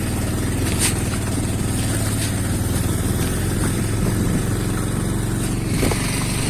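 Motorcycle engine running steadily while riding, an even low drone with a faint click under a second in.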